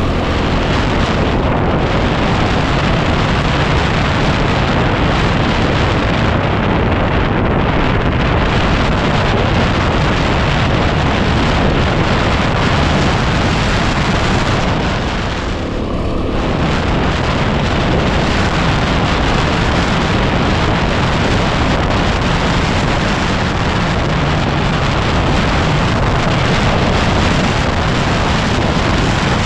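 Heavy wind buffeting the microphone of a moving motorcycle, a dense steady rush that all but buries the single-cylinder engine of a 2010 Yamaha WR250R. It eases briefly about halfway through.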